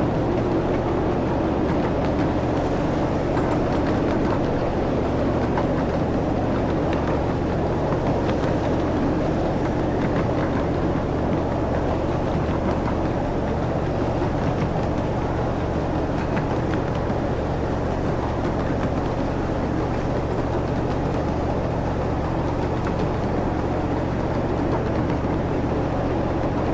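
Ride-on park train running steadily: a constant low engine drone under an even rumble of the cars rolling along the track.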